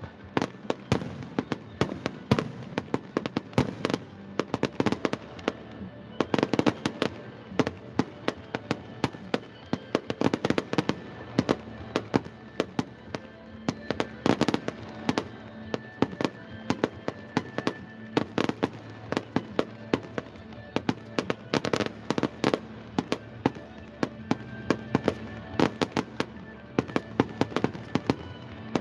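A fireworks barrage: a rapid, continuous run of bangs and crackles, several a second, with music playing underneath.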